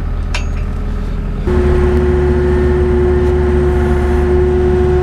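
Skid steer engine running, throttled up about a second and a half in, with a steady whine from then on as the machine works under load pushing a vehicle.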